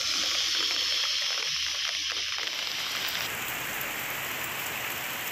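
Heavy rain and rushing floodwater: a steady hiss of water that changes in character about two and a half seconds in.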